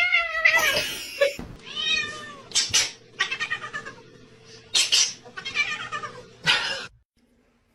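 Domestic cat meowing over and over in a series of drawn-out, wavering meows.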